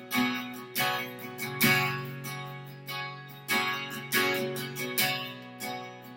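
Acoustic guitar strummed in a slow, even rhythm, each strum ringing out and fading before the next, sustaining chords between sung lines of a worship song.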